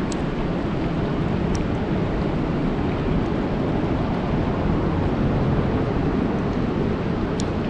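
Steady rain falling on a lake: an even, dense hiss of drops on the water, with a few faint sharper ticks.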